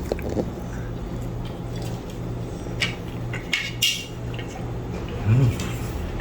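Cutlery clinking against a plate during a meal: a handful of light, scattered clinks. About five seconds in, a short hummed sound from a person, rising and falling.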